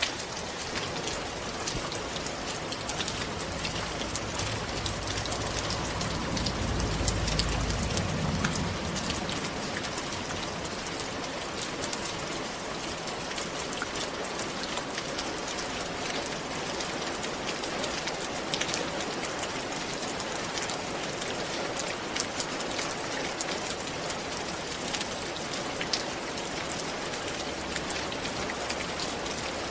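Rain falling on a roof: a dense, steady patter with many sharp individual drop hits. A low rumble swells briefly about six to eight seconds in.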